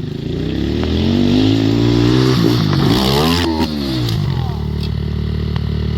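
Dirt bike engine revving. The pitch climbs over the first two seconds, swings quickly up and down a few times around the middle, then settles into a steadier, lower running note.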